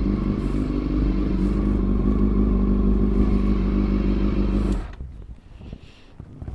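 Honda CBR400RR's inline-four engine running steadily at low revs, then switched off and cutting out abruptly about five seconds in. Faint clicks and knocks follow.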